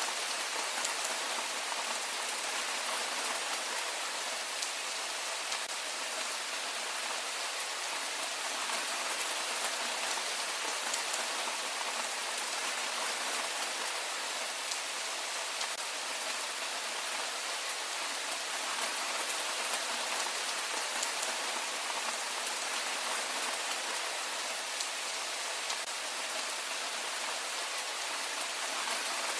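Heavy rain falling steadily, an even hiss of drops with no letup.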